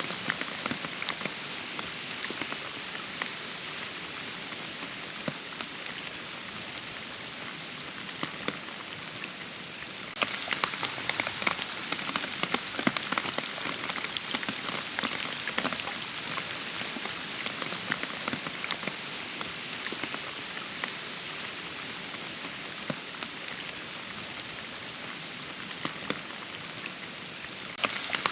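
Steady rainfall with many distinct drops ticking and pattering close by. The rain jumps abruptly louder and denser about ten seconds in.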